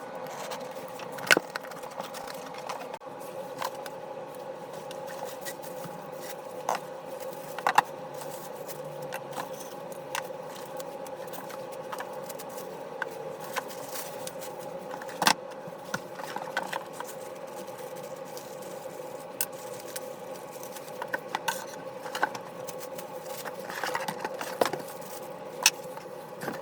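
Packaging and vacuum parts being handled: scattered clicks, knocks and scrapes over a steady hum.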